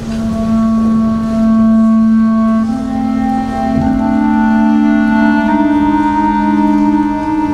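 School concert band playing a slow, solemn elegy: sustained wind chords held and shifting to new notes every second or two.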